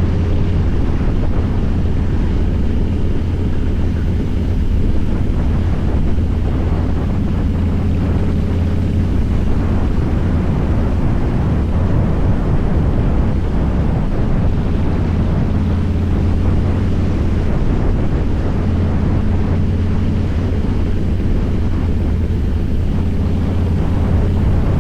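Harley-Davidson Fat Boy's V-twin engine running steadily under way, with wind rushing over the microphone.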